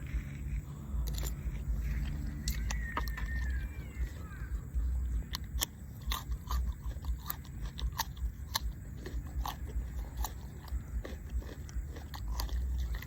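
Close-up chewing with repeated sharp, irregular crunches of crisp food, such as raw vegetables eaten with seafood papaya salad.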